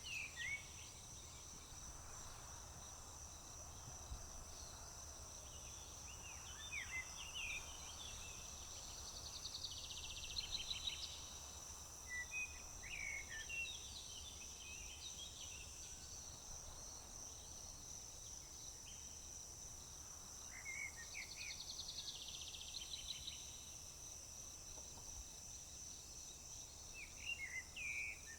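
Summer countryside ambience: a steady high-pitched chorus of crickets, with songbirds singing short chirping phrases and rapid buzzy trills every few seconds.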